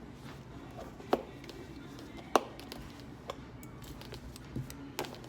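Two sharp clicks, about a second in and again just past two seconds, with lighter taps between, as grooming shears are snapped into their protective case.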